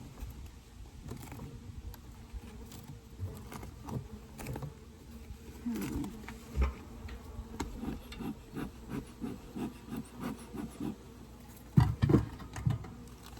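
Honeybees buzzing at an opened Layens hive, with scattered clicks and knocks from wooden frames being handled; a louder knock about twelve seconds in.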